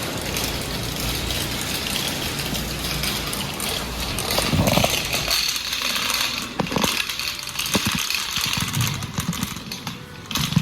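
Car interior driving noise: engine and road rumble with a steady hiss. The rumble fades about halfway through, then a few sharp knocks follow.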